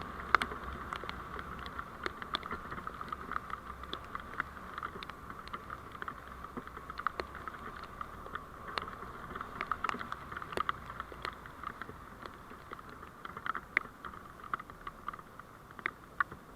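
Vehicle running noise heard through a dash camera's microphone: a steady hiss with a faint low rumble that fades near the end, dotted with many small irregular clicks.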